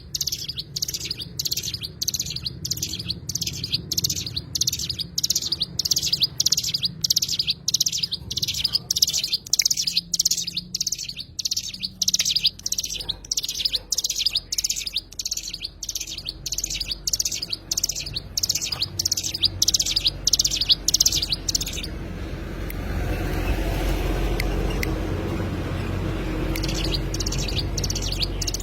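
A songbird known to keepers as a cigun calling in a fast, even series of sharp chirps, about two a second. About 22 seconds in, the chirping stops for some five seconds while a rushing noise is heard, and then it starts again.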